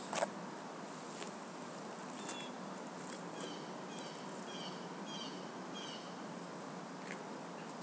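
Steady background hiss with a run of short, high chirps repeating about twice a second in the middle, typical of a small bird calling. There is a single click right at the start.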